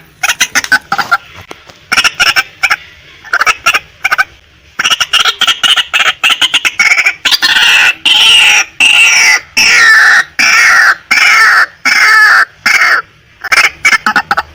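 Female white-breasted waterhen calling: a loose series of short clucking notes, then from about five seconds in a fast run of loud, repeated, slightly falling notes, about two a second.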